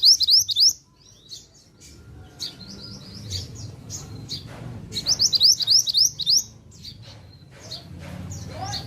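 Pied bushchat (mantenan) singing vigorously: quick runs of high chirping notes, loudest right at the start and again about five seconds in, with scattered single notes in between.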